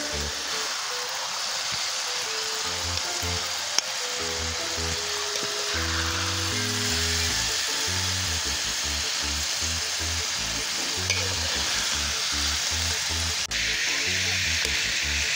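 Green beans sizzling steadily as they fry in an aluminium wok, with a spatula stirring and turning them.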